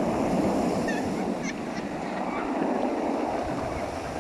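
Seabirds calling in short, scattered cries over a steady rush of wind and sea.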